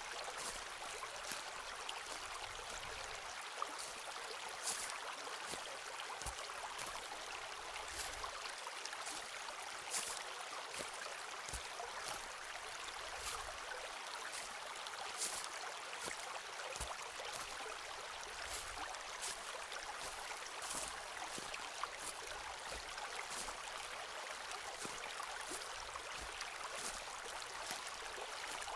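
Footsteps walking through a forest, with scattered sharp crunches and snaps over a steady rushing background.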